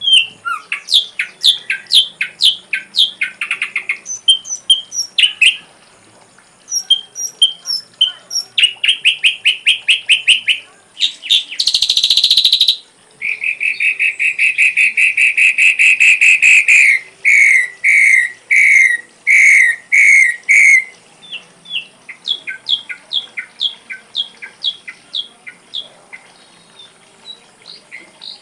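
Ashy drongo singing a varied song: runs of short repeated whistled notes, a harsh rasping burst about twelve seconds in, then a long fast trill followed by a series of loud slurred notes. A faint steady high-pitched tone runs underneath.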